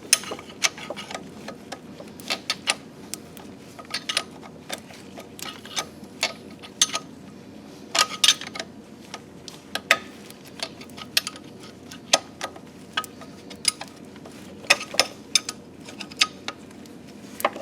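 Irregular metallic clicks and ticks from hand tools working bracket bolts on an engine, coming in small clusters every second or two.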